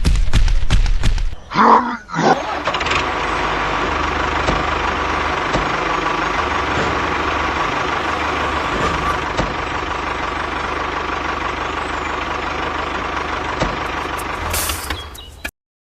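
A mini tractor's motor running steadily, with a thin constant whine over an even hum. It cuts off abruptly near the end.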